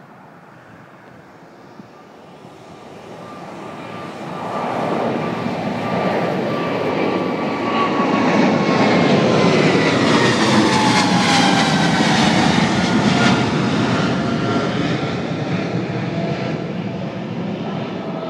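Boeing 777-200LR's GE90-115B turbofans at takeoff power as the jet passes by, swelling to a loud peak about halfway through and then fading. The whining engine tones slide down in pitch as it goes past.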